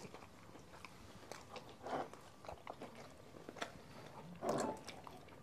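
Soft chewing and mouth sounds of people eating pizza: irregular small clicks and smacks, with a somewhat louder mouth sound about four and a half seconds in.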